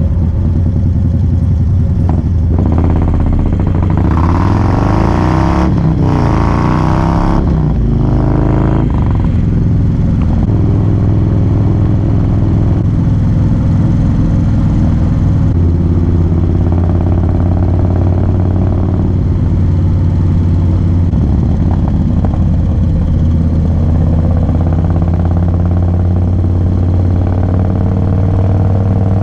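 2017 Harley-Davidson Low Rider S's Screamin' Eagle Twin Cam 110 V-twin engine pulling at highway speed. Its note rises and falls, with a louder rush of noise between about two and nine seconds in, then holds steady at cruise.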